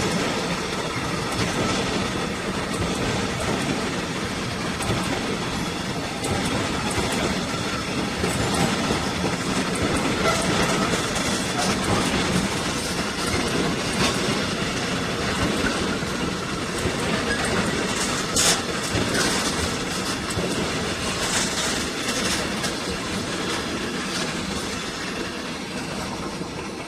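A train running past on the rails, its wheels clattering steadily over the track, with a few sharp clicks in the middle. It fades a little toward the end.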